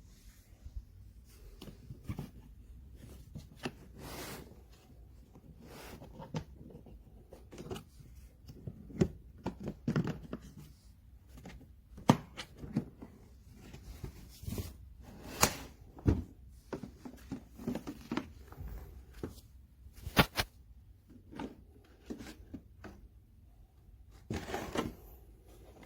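Irregular clicks, knocks and rustles of hard objects being handled, with a few sharper knocks scattered through.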